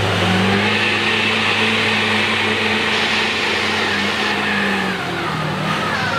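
Mega mud truck's engine revving up, holding high revs with a high whine over it, then easing off near the end.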